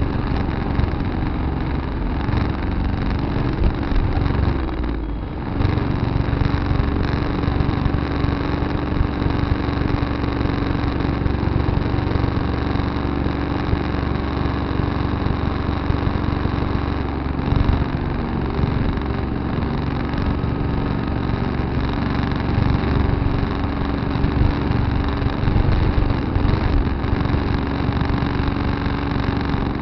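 Tractor engine running steadily, with a brief dip in its sound about five seconds in.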